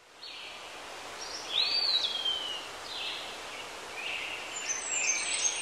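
Birds calling: several short, high call notes and one longer call that rises and then slides down, with a few higher chirps near the end, over a steady background hiss.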